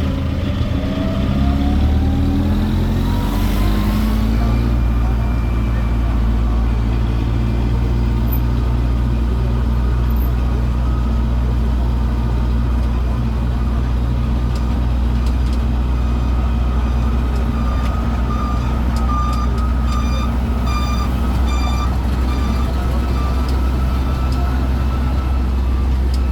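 Tour road train's engine running steadily. A whine rises in pitch over the first few seconds as it gathers speed, then holds steady while it cruises.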